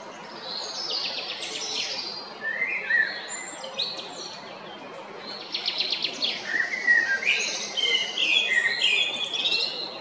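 Male common blackbird singing: two song phrases of warbled notes run into rapid high trills and twittering, one in the first few seconds and a longer one from about halfway through.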